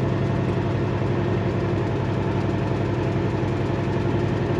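Semi truck's diesel engine running steadily at a low idle, with an even low throb.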